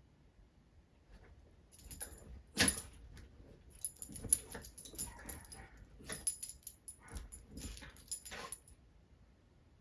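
A dog moving about, its collar tags jingling in several short bursts.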